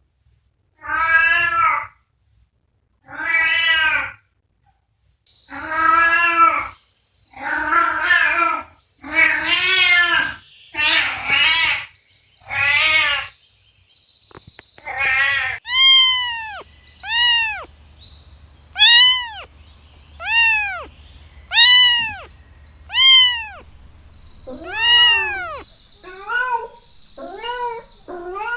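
Cats meowing repeatedly: first a series of long, drawn-out meows, then a quick run of shorter, higher-pitched mews that rise and fall, about one every second and a half.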